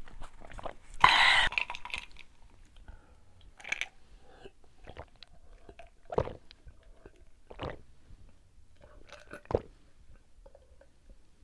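Close-miked chewing and biting of food, with a loud short burst of eating noise about a second in, then scattered wet mouth clicks every second or two.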